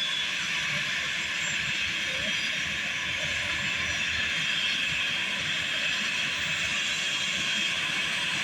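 Embraer E195's GE CF34 turbofan engines running steadily: an even, high hissing rush with a faint whine in it.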